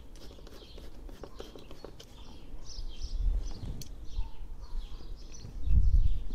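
Small birds chirping repeatedly over a low rumble that swells loud near the end.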